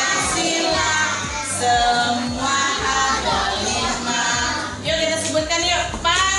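A song with a steady beat playing, with children and a woman's voice singing along.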